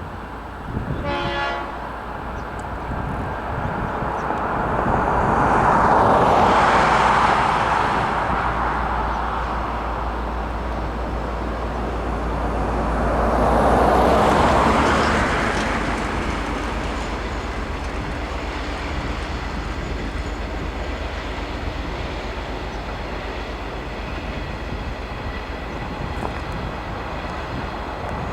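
A train gives a short horn blast about a second in. Then the noise of the passing train swells loud twice, with a low rumble under it, before settling to a steadier, quieter noise.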